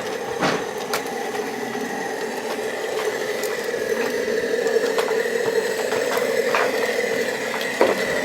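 Steady mechanical drone with a thin high whine above it and a few sharp clicks and knocks, like a small engine running.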